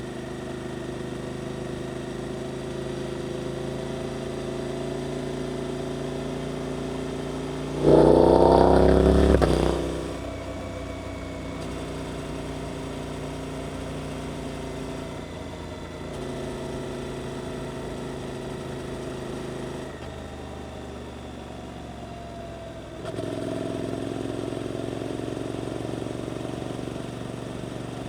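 Suzuki GSX-8S parallel-twin engine through an Arrows aftermarket exhaust, running on the move. About 8 seconds in it opens up in a short hard burst of acceleration, rising in pitch for about two seconds, the loudest moment. It then drops back to steady running, goes quieter for a few seconds, and picks up again about 23 seconds in.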